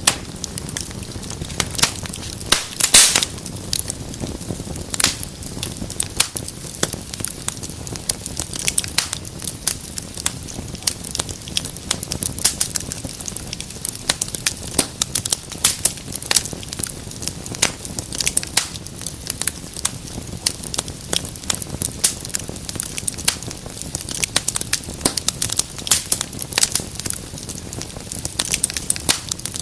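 Wood fire in a fireplace crackling and popping: a dense, irregular run of sharp snaps over a soft hiss, with a louder cluster of pops about three seconds in.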